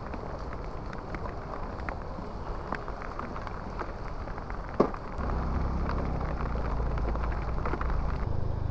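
Heavy rain falling steadily on pavement. About five seconds in, a motorcycle engine starts and runs with a steady low hum as the bike moves off through the rain.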